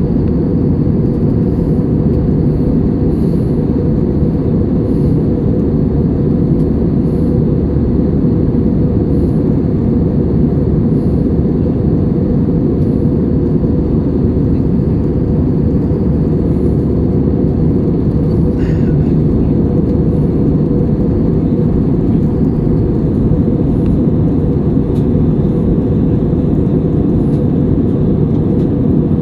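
Steady cabin noise of an Airbus A320-200 in motion: a loud, even rumble of its jet engines and airflow, unchanging throughout.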